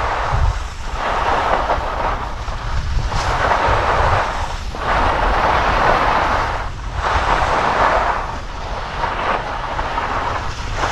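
Skis scraping over packed snow through a series of turns, the hiss swelling and fading about every two seconds, with wind rumbling on the microphone.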